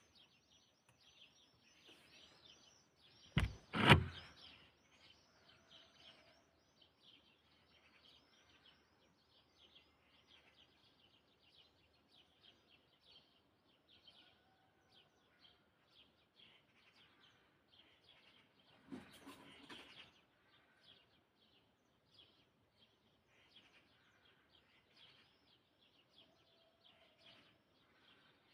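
Many small birds chirping and twittering in a continuous dawn chorus. About four seconds in, two loud sharp knocks stand out, and around two-thirds of the way through comes a short rustling thump.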